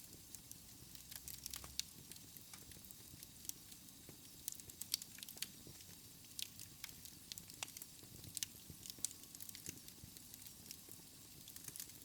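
Wood fire burning in a fireplace, crackling: frequent irregular sharp pops and snaps over a faint steady hiss.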